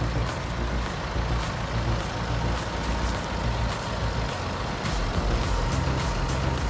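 Heavy diesel machinery running steadily under load, mixed with a background music track beating about twice a second.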